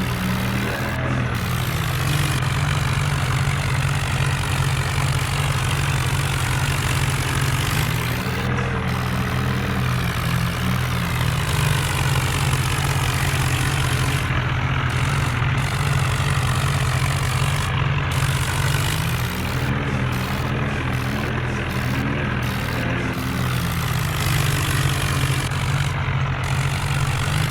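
Diesel tractor engines of a Sonalika 60 and an Eicher 551 running steadily, with a deep continuous engine note that wavers slightly in pitch now and then.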